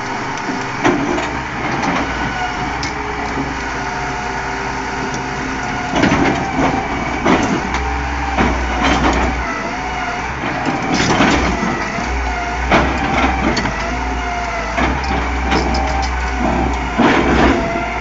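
Excavator's diesel engine running steadily under load, with repeated harsh scraping and knocking bursts as the bucket works against stone, the loudest about six, eleven and seventeen seconds in.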